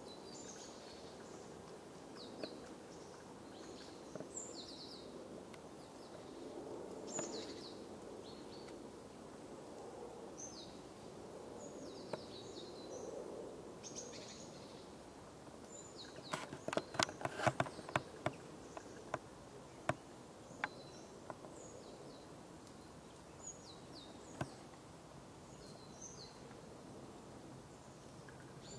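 Small birds calling in short, high, falling chirps over a steady low outdoor background. A little past halfway comes a quick run of sharp clicks, with a few single clicks after it.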